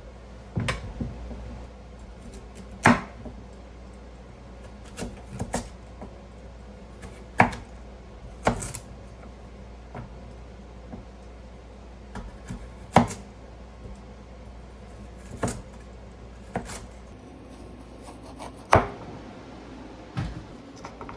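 Knife chopping on a cutting board: sharp, irregular knocks about one every second or two, over a low steady hum.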